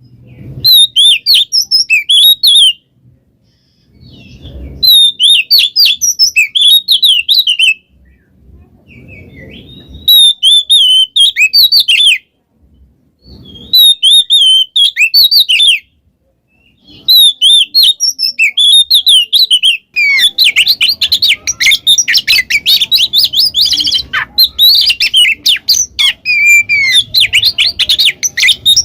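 Oriental magpie-robin (kacer) singing loudly. Phrases of quick varied whistled notes, each lasting two to three seconds, are separated by short pauses. About two-thirds of the way in, the song becomes an unbroken run of rapid notes.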